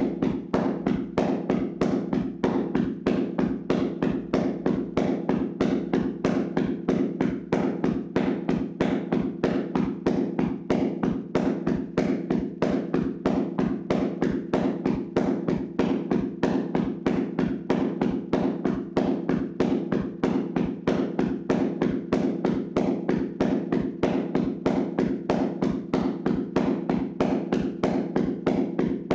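Hands rapidly slapping and tapping a person's body in a tapping massage: a fast, even rhythm of dull pats, several a second, without a break.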